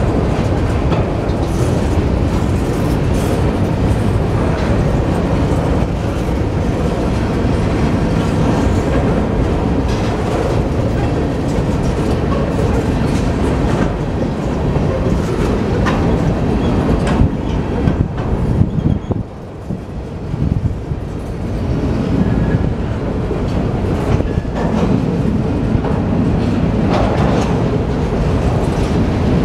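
Freight train of empty centerbeam flatcars rolling past, with a steady rumble of steel wheels on rail and rapid clickety-clack at the rail joints. The sound dips briefly about two-thirds of the way through.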